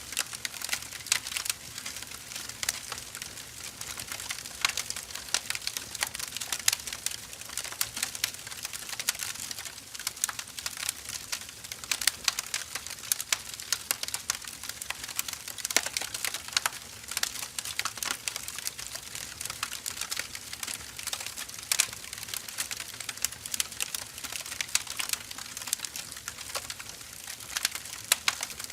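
Firewood burning, with dense irregular crackles and pops over a soft hiss.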